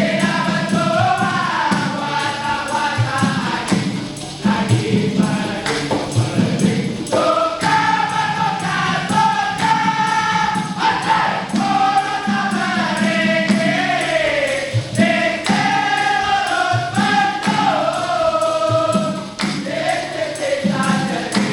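A vocal group singing a song in harmony, with several voices moving together over a steady percussion beat.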